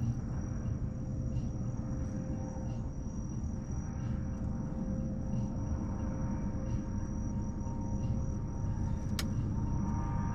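Bonfire burning against a steady low rumble, with one sharp pop from the fire about nine seconds in. Insects trill steadily in a high, even tone.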